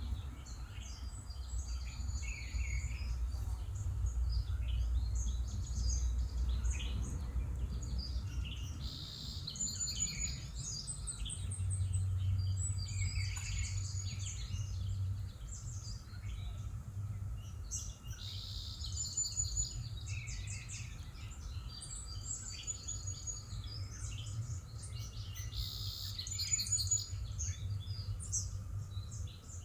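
Songbirds chirping and singing, with many short repeated calls and trills throughout, over a steady low rumble.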